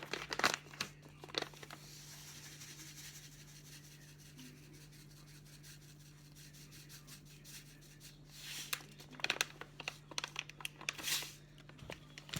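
Plastic food packaging rustling and crinkling as ingredients are handled, in bursts about a second in and again through the second half, with a softer even hiss in between as chia seeds are poured.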